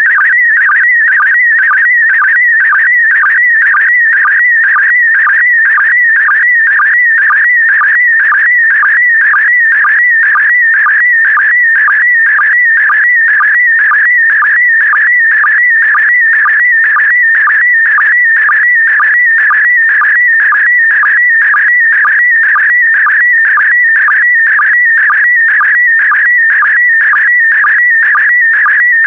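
Slow-scan TV image signal in PD120 mode: a high, warbling electronic tone whose pitch wavers quickly as it encodes picture brightness, broken by a short lower sync pulse about twice a second, each marking the start of a new pair of image lines.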